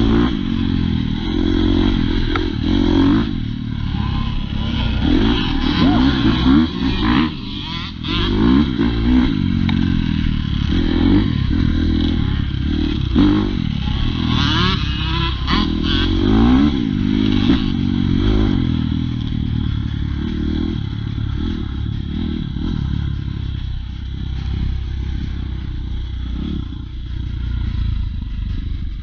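Dirt bike engine being ridden, revving up and down over and over, its pitch rising each time it accelerates.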